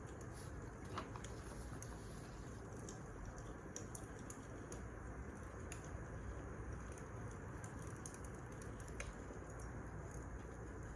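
Wood fire crackling: a steady low rush with scattered small snaps and pops, a sharper pop about a second in and another near the end.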